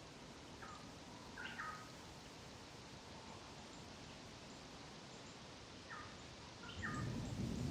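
A bird calling twice, each time a short phrase of a few quick, sharp notes, the second phrase repeating the first about five seconds later, over a faint steady outdoor hiss. A louder low rumbling noise starts near the end.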